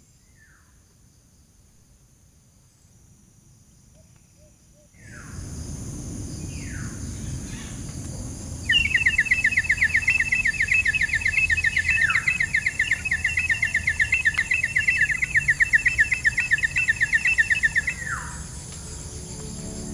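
Wild birds calling: a few falling whistles and a long, fast, even trill lasting about nine seconds, over a steady high-pitched ringing in the background.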